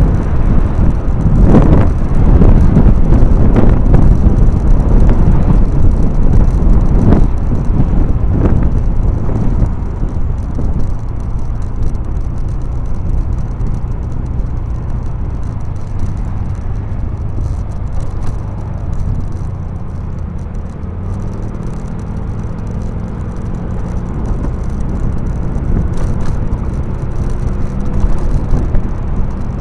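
A motor vehicle running, loud and rough for the first ten seconds or so with a few knocks, then settling into a steadier, quieter drone whose low pitch rises slightly near the end.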